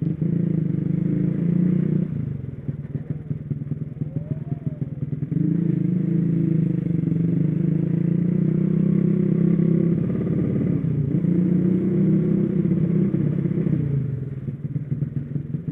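Motorcycle engine running under way, held on the throttle and eased off briefly about two seconds in, again just after ten seconds, and near the end.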